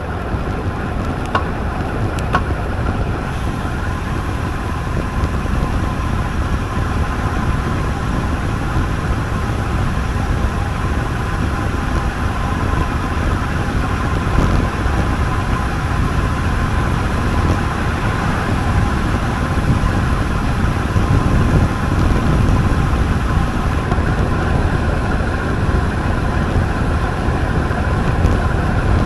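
Steady wind rush on the microphone of a bike-mounted camera while riding a road bike, with a constant low rumble and a faint steady whine from the tyres on the road.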